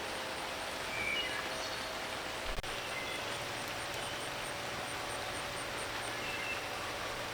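Outdoor ambience after a thunderstorm: a steady, even hiss with faint, scattered short bird chirps and one sharp click about two and a half seconds in.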